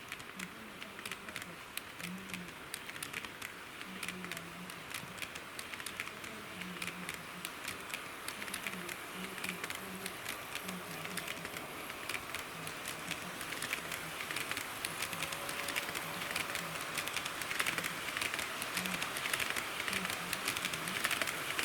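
HO gauge model diesel railcar running on sectional track: wheels clicking irregularly over the rail joints with a rolling hiss, growing gradually louder as the train approaches.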